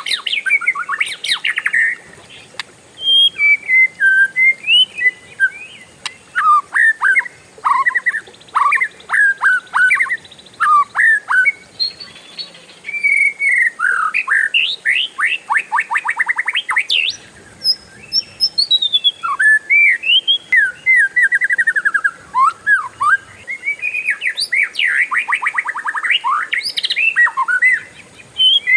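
Oriental magpie-robin (kacer) singing a long, varied song, with sweeping whistled notes broken by several fast rattling trills of rapid repeated notes: the long 'ngeroll' run that is used as bait song to set other birds singing.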